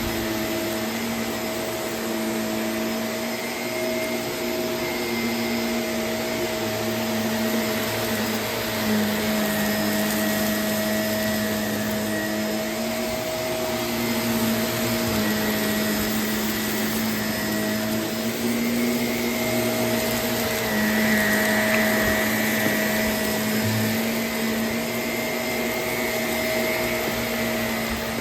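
Vacuum cleaner running steadily: a constant motor hum over rushing air, the pitch dipping and rising a little.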